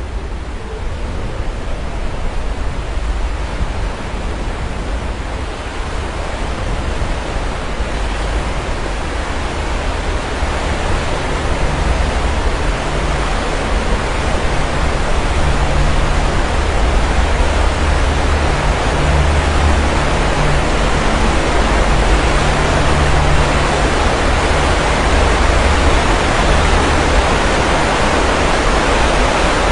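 Sea surf: a continuous rush of waves breaking and washing ashore, with a deep low rumble beneath, swelling louder through the second half.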